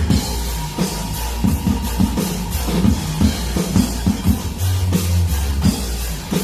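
Drum kit playing a rock song, with bass drum hits and cymbals over guitar and bass.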